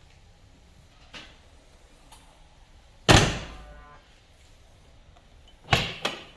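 Car doors being shut: a faint click, then one loud slam that rings off for about a second, and near the end two quicker slams in close succession.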